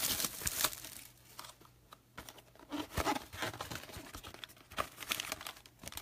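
Crinkly plastic wrapping on a box of baseball cards being torn open and crumpled in several bursts, loudest at the start and again about halfway through.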